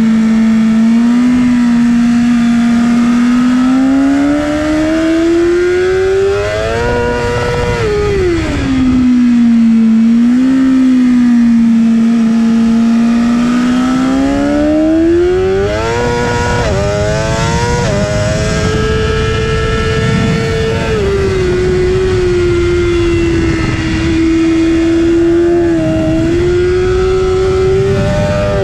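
Onboard sound of a 2019 BMW S 1000 RR's inline-four engine under hard riding, with wind rush on the microphone. Its pitch climbs under acceleration and falls back as the throttle closes. A second climb ends in a quick run of gear-change steps about sixteen seconds in, and the engine then holds at a steady high pitch.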